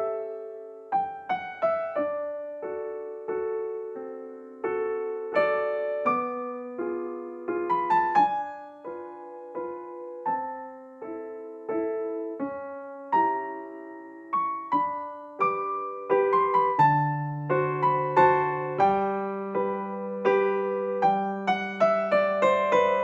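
Background music: a solo piano or electric piano playing a gentle melody over chords, each note struck and fading, with deeper bass notes coming in about two-thirds of the way through.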